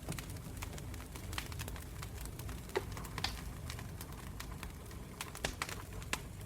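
Wood campfire burning: a low steady rumble of flames with irregular crackles and a few sharper pops.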